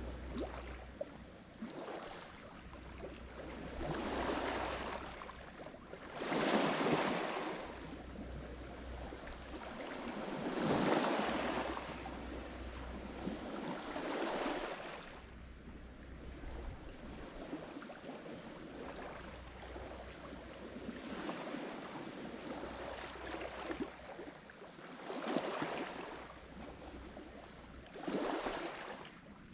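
Lake Michigan waves breaking and washing on the shore. The surges come every few seconds, the loudest two near the middle.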